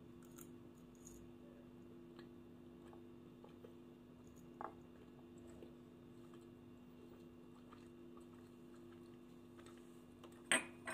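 Soft, quiet chewing of mochi, with small clicks of a metal fork against a ceramic bowl and one louder, sharp clink near the end. A steady low hum runs underneath.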